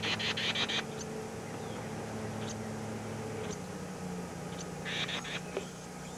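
Nestling birds giving rapid, pulsed begging chatter in the first second and again briefly about five seconds in, with a few single chips between, over a steady low electrical hum.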